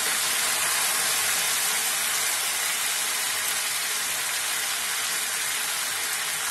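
Chicken pieces frying in hot oil in a kadhai over a high flame: a steady sizzling hiss.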